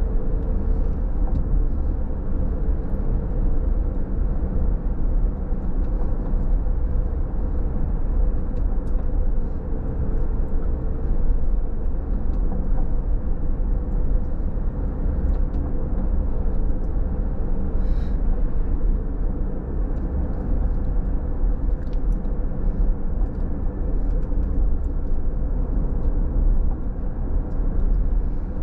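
Car driving on a rain-wet road: a steady low rumble of tyres and engine, with a faint steady hum and a few faint ticks.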